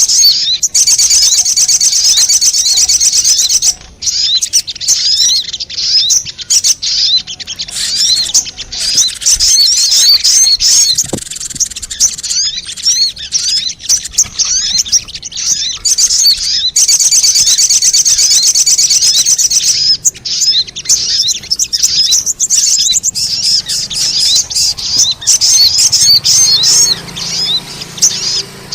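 Sogon (spiderhunter) lure call: long, fast runs of high-pitched chattering chirps that break off briefly now and then and start again. A recording of this kind is played to draw wild sogon birds in.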